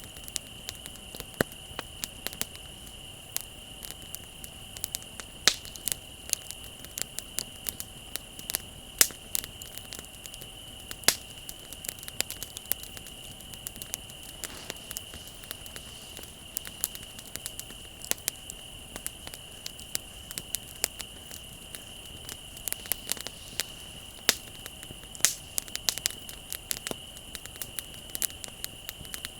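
Wood bonfire crackling, with frequent sharp, irregular pops and snaps, over a steady high-pitched chirring of crickets.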